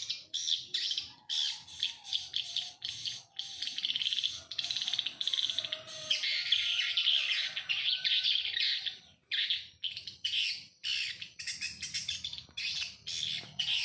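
Birds chirping and chattering in a dense run of quick, high calls, with a few short pauses in the second half.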